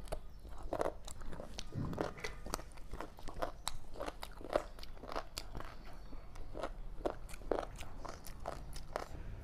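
A person chewing a mouthful of fried rice, with a steady run of small wet clicks from the mouth, about two or three a second.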